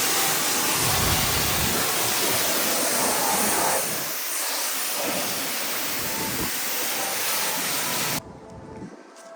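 Steady, loud hiss of a high-pressure spray at a car wash, which cuts off suddenly about eight seconds in.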